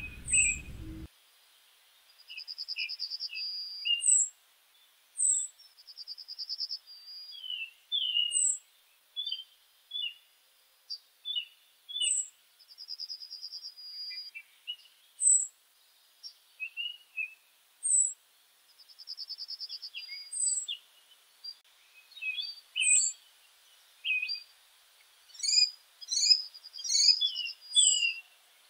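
Several birds calling and singing: short high chirps, quick slurred notes, and a rapid trill about a second long that comes back every few seconds, with a busier burst of calls near the end.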